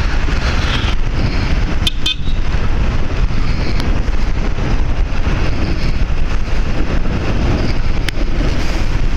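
Bajaj Avenger motorcycle running at steady road speed, its engine mixed with constant wind rush over the microphone, with a couple of brief clicks about two seconds in.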